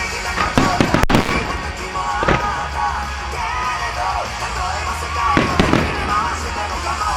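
Aerial fireworks bursting in several sharp bangs, the strongest about a second in and a pair past the halfway point, over loud pop-rock music with singing played for the show.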